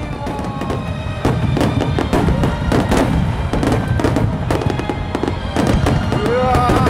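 A star mine barrage of aerial firework shells bursting in rapid succession, many sharp bangs running together over a continuous low rumble. Music plays under the bangs.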